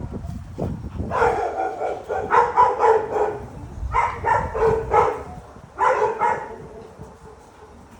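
Dog barking in quick runs of short, high barks: a long run starting about a second in, another around four seconds in, and a brief one near six seconds.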